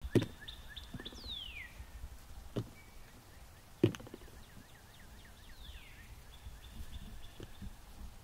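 Wild birds calling: two whistled calls sliding down in pitch and a run of quick repeated chirps. Three sharp thumps cut in, the loudest near the start and about four seconds in.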